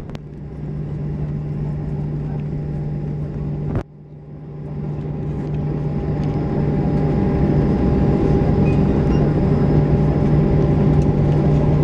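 Boeing 737-800 cabin noise after landing: a steady low drone of the engines and cabin air with a strong low hum. A click about 4 s in cuts the level sharply, and it then builds back up over several seconds.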